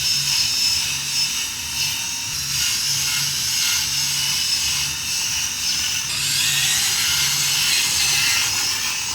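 Steady mechanical whirring with a faint low throb about twice a second.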